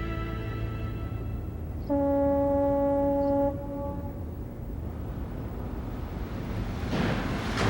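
A ship's horn sounds one steady low blast with overtones, about a second and a half long, that cuts off and echoes briefly. A low rumble runs underneath, and a rushing wind-and-water noise builds near the end.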